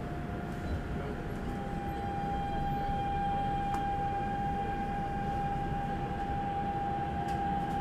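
Daegu Metro Line 1 train running: a low rumble with a steady electric whine from the traction drive. The whine steps up slightly in pitch and gets louder about a second and a half in.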